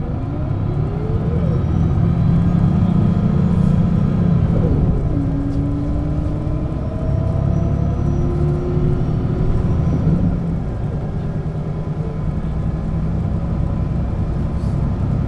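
Setra S 315 UL bus running on the move: a steady, loud, low diesel rumble. Through it, a whine rises in pitch about a second in and again around four seconds in, then holds steady for stretches, as the bus and its ZF gearbox gather speed.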